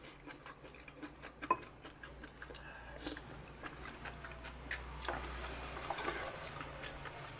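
Faint eating sounds: a person chewing gopchang (intestines) from a hot pot, with scattered light clicks of utensils, one sharper click about a second and a half in.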